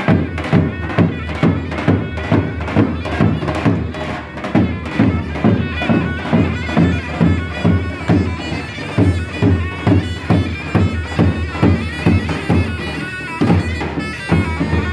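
Traditional folk music played live: a loud, shrill reed pipe holds a melody over a steady drum beat of about two to three strokes a second.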